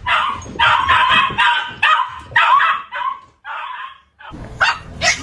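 A dog vocalising in a run of about six short, rough barks and yips over three and a half seconds.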